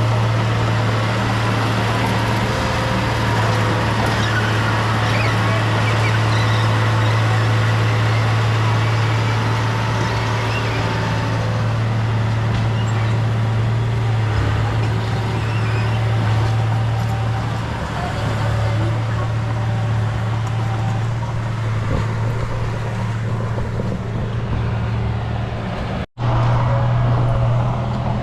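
Heavy diesel engine of earthmoving equipment running steadily under load, with a deep, even hum. It cuts out for a split second near the end, then carries on.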